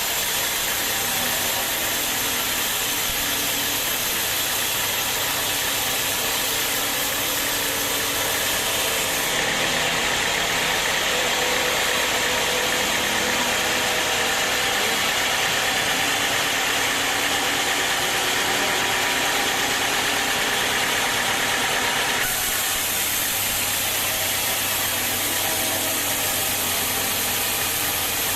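Sawmill machinery running steadily, with an engine-like hum throughout. About a third of the way in, a louder, higher-pitched cutting sound sets in, typical of a saw going through wood, and stops abruptly about two-thirds of the way through.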